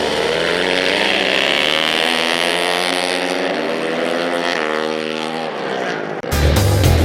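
Racing motorcycle engine running hard at high revs, its pitch dropping in steps midway, then cut off abruptly about six seconds in.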